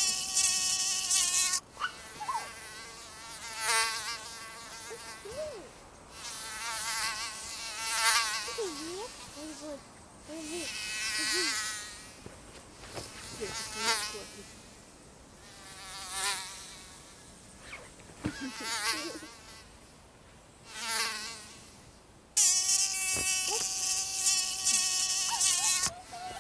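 Mosquito buzzing in flight. It swells and fades over and over, about every two seconds, as if passing close by the ear, and holds a steady, close buzz near the start and again for a few seconds near the end.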